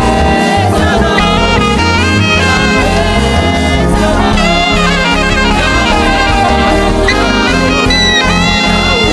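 Live gospel band playing, with a saxophone carrying an ornamented, sliding lead line over keyboard, drums and guitar.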